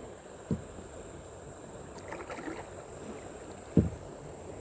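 Two dull knocks on a kayak hull, about three seconds apart, the second louder.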